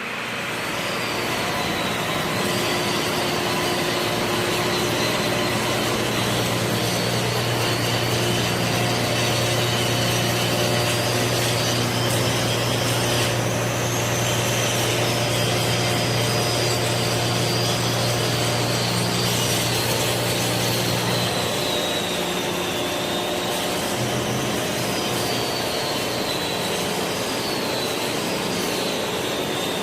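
Continuous metalworking noise from welding repair on industrial equipment: a steady hiss over a low hum. The hum drops away about two-thirds of the way through, and a faint high whine wanders in pitch throughout.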